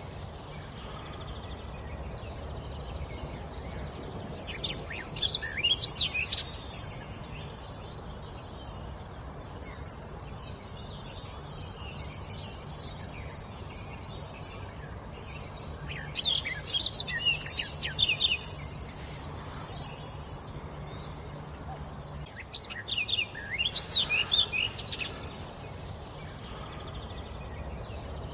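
A wild songbird singing three short phrases of quick, high, rapidly varying notes, each lasting one to two seconds, with steady background noise between them.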